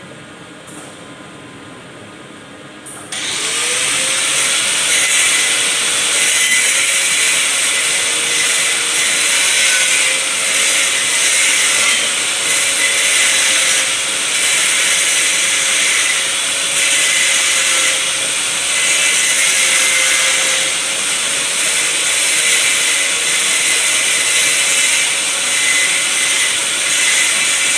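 A high-speed motor starts up about three seconds in, spinning up quickly and then running loud and steady at one high speed, with a hissing whine.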